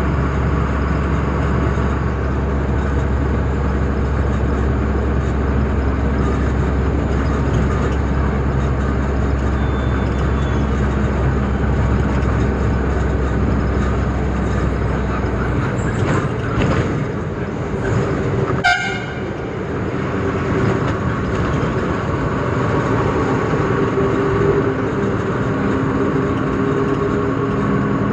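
Tata truck's diesel engine running steadily under way, with road noise. The low drone changes about halfway through, and a single sharp click comes a few seconds later.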